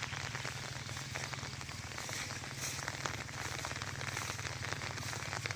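Steady patter and splashing of falling water, with a low steady hum underneath.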